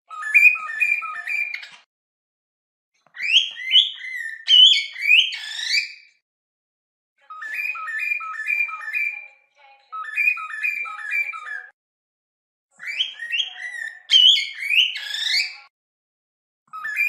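Cockatiel whistling in repeated phrases of short stepped notes, alternating with phrases of rising glides, each phrase a second or two long with short pauses between.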